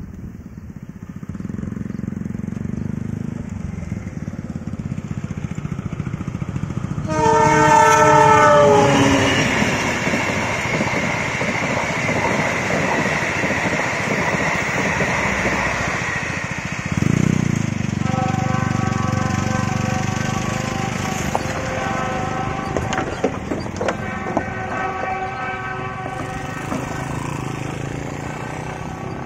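A passenger train hauled by a diesel locomotive approaches fast and sounds one long horn blast about seven seconds in, its pitch dropping as the locomotive goes by. The carriages then rush and clatter past on the rails for most of the rest, with steady tones over the rumble later on.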